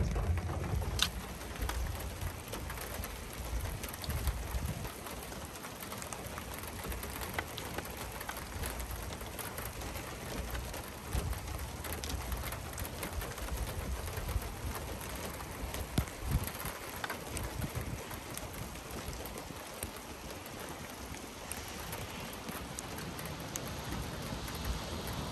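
Steady rain falling on a car, a continuous hiss dotted with many small scattered drop ticks.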